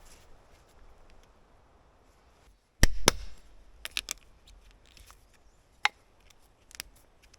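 Sharp knocks of a tool striking wood: two loud strikes about three seconds in, then a few lighter, spaced knocks.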